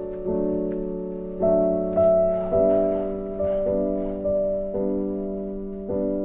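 Background piano music: slow chords struck one after another, each ringing and fading before the next.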